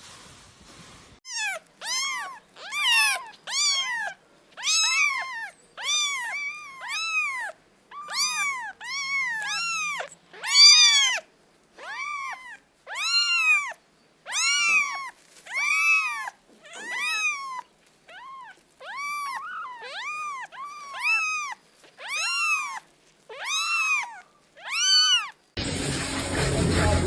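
A cat meowing over and over: a long string of high-pitched calls, each rising and falling, about one a second. Near the end the meows stop and music cuts in.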